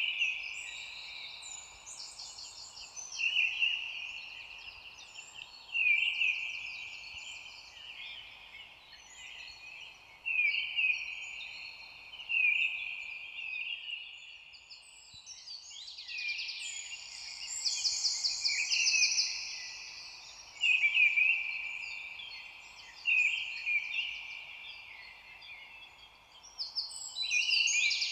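Songbirds singing. One bird repeats a short phrase every two to three seconds, with higher, faster trills from other birds over it, above a faint steady background hiss.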